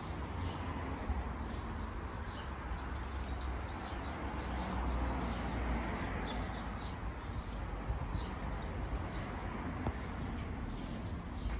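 Birds chirping in short, scattered high calls, with one held whistle near the end, over a steady low rumble of outdoor background noise.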